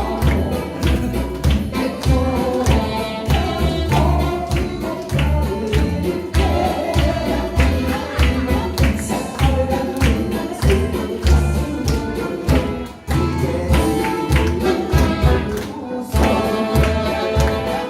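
Live band music with singing over a steady drum beat and a heavy bass line.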